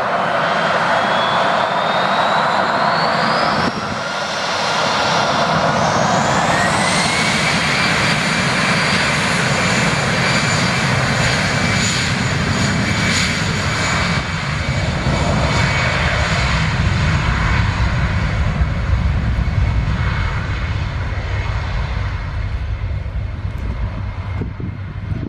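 Airbus A319's two jet engines spooling up to takeoff thrust: a whine rises in pitch over the first several seconds and then holds steady over a loud jet noise. A low rumble builds in the second half, and the sound cuts off suddenly at the end.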